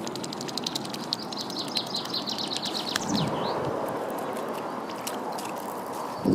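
Small bird chirping a rapid run of high notes for about three seconds, over a steady outdoor background hiss, with a single sharp click about three seconds in.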